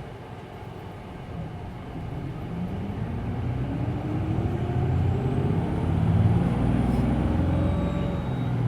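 Interior of a Hino Blue Ribbon City Hybrid diesel-hybrid city bus accelerating. The engine note rises in pitch and grows steadily louder as the bus gathers speed, with the low drivetrain rumble strongest in the second half.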